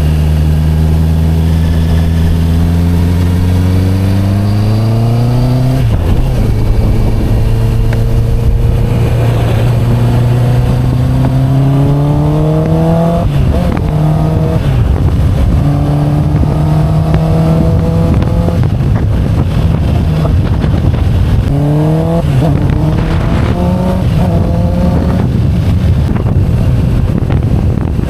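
Motorcycle fitted with an Akrapovic full exhaust system pulling through the gears: the engine note climbs in pitch, then drops back at each shift, several times over.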